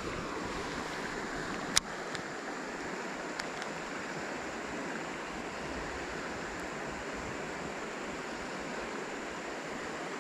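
Steady rushing of river water flowing over the shallows, with one sharp click about two seconds in.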